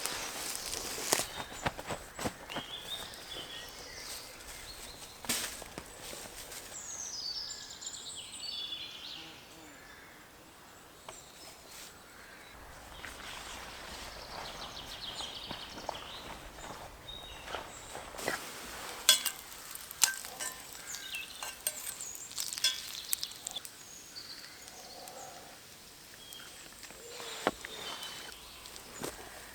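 Someone moving about on a woodland floor: scattered footsteps, rustles and small knocks, with birds chirping now and then.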